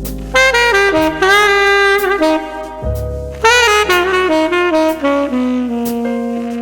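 Saxophone playing a jazz melody in short phrases, with bent and wavering notes, over sustained low bass notes.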